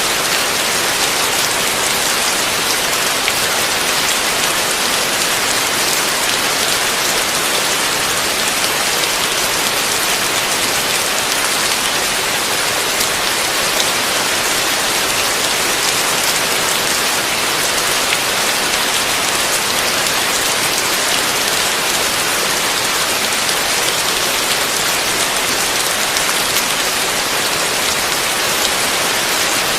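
Heavy rain falling steadily, a dense even wash of drops with no thunder.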